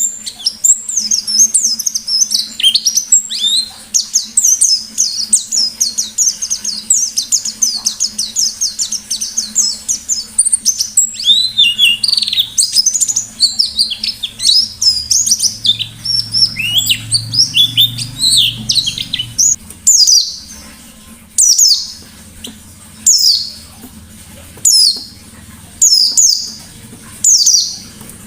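White-eye (pleci) singing a fast, unbroken twittering song of high chirps and trills. About two-thirds of the way through it changes to single sharp calls, one about every second and a half. A faint steady low hum runs underneath.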